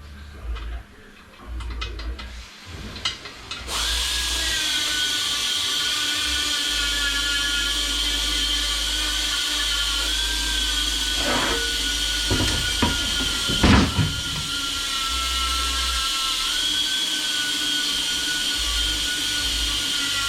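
A few light clicks of handling, then a power tool switches on about four seconds in and runs steadily with a high whine, its pitch shifting slightly now and then. A few clanks come midway.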